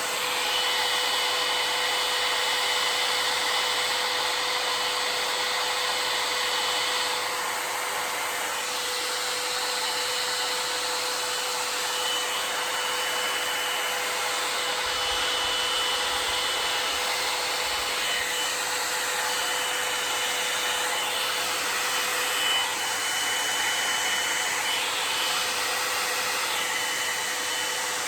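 Handheld hair dryer blowing steadily with a constant motor whine, its airflow changing a little now and then; it is drying the glue under a wig's lace.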